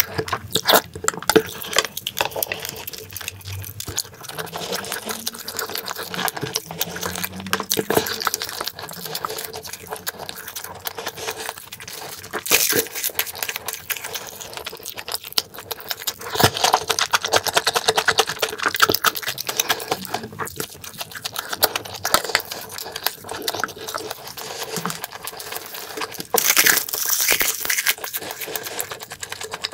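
Close-miked chewing of a mouthful of food, with wet clicking mouth sounds throughout and louder spells about 12 s in, from about 16 to 19 s, and near the end.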